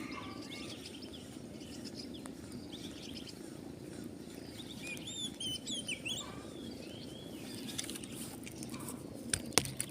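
Small birds chirping in short, scattered calls over a steady low background hum. Two sharp clicks come near the end, the second the loudest sound.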